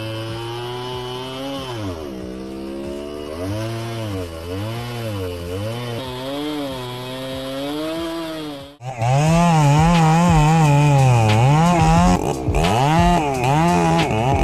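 Chainsaw engine running, its pitch repeatedly dipping and recovering as it bogs down in the cut and revs back up. About nine seconds in it cuts abruptly to a louder, higher-pitched saw doing the same.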